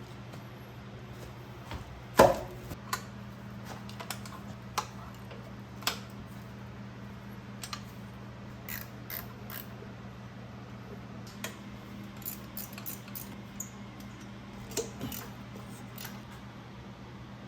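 Hand tools and small metal parts clicking and clinking during motorcycle disassembly, scattered irregularly, with one loud knock about two seconds in, over a steady low hum.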